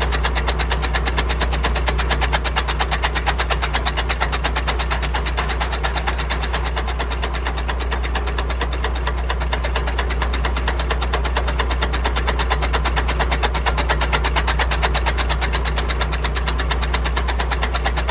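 YTO Agri Master 854P tractor's diesel engine running steadily at constant speed, with an even, rapid beat.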